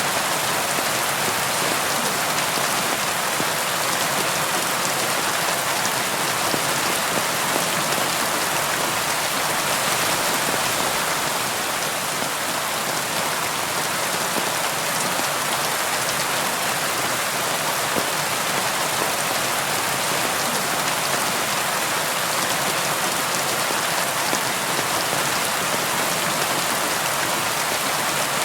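Steady, even rainfall, a continuous hiss of rain with scattered drops striking a surface.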